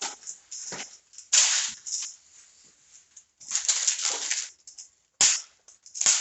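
Small crimp connectors and their packaging being handled and sorted through: a run of sharp, irregular rustling and clattering noises.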